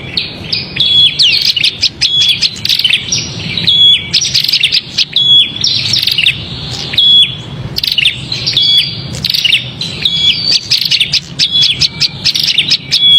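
Agitated, scolding chirps of a prinia (prenjak), played as a bird-trapping lure call: the same loud chirping phrase, with a short steady high note in each, repeats about every second and a half.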